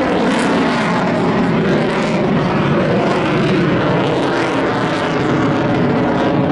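Eurofighter Typhoon's two EJ200 turbofan jet engines running loud and steady through a display pass.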